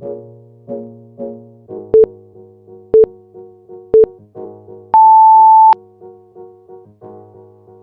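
Workout interval timer counting down: three short beeps a second apart, then one longer, higher beep, marking the change between work and rest intervals. Background music with a keyboard plays underneath throughout.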